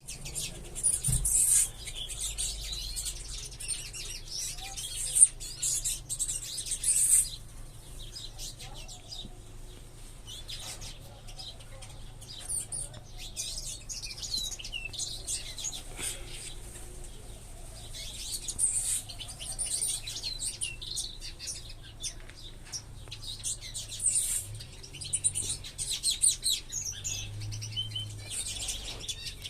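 Many small ornamental aviary birds chirping and twittering all at once, with one sharp knock about five seconds in.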